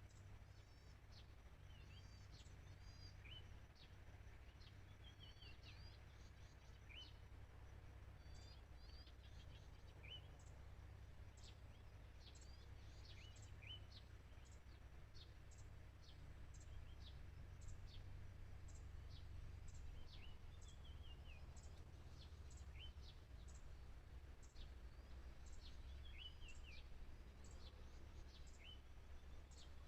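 Faint calls of small wild birds: a sharp high falling note repeated about once a second, mixed with scattered chirps and short trills, over a steady low rumble.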